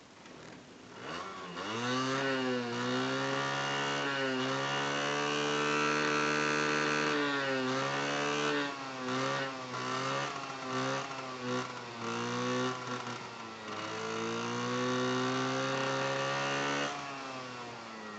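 Yamaha Jog scooter engine starting about a second in, then idling and being revved, with several quick throttle blips in the middle. It cuts off abruptly near the end.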